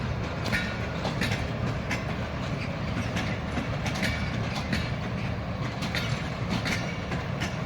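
Passenger train rolling past slowly: a steady low rumble of coaches, with repeated sharp clicks from wheels crossing rail joints and points, about one or two a second.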